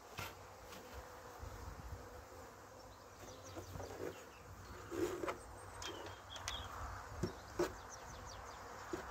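A swarm of honeybees buzzing steadily around an opened hive. In the second half come several sharp knocks and taps, the loudest about five and seven and a half seconds in.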